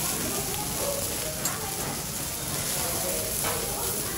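Pork sizzling steadily on a hot teppanyaki steel griddle, an even hiss, with faint voices behind it.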